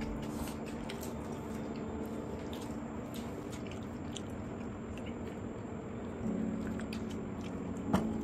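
Close-up chewing and wet mouth sounds of a person eating pulao and mutton curry, with small irregular clicks and a sharper click near the end.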